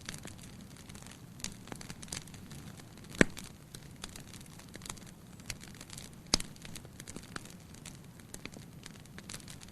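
Firewood burning in a fireplace: a steady low hiss with frequent small crackles, and two loud sharp pops, about three seconds in and again about six seconds in.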